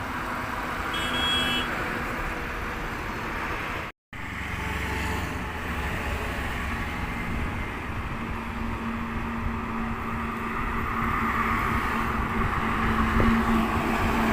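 Truck running on the road: steady engine and road noise, broken by a brief cut to silence about four seconds in, with a steady low hum in the second half.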